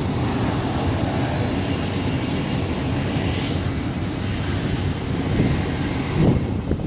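Jet airliner engines running: a steady noise, heaviest in the low end.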